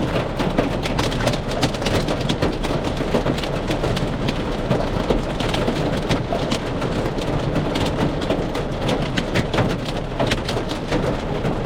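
Heavy rain and hail pelting the outside of a vehicle: a dense steady hiss of rain, shot through with many sharp knocks of hailstones.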